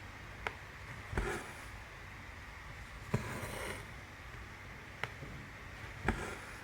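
Cross-stitch needle popping through 14-count Aida fabric five times, two of the pops followed by a half-second swish of thread being drawn through.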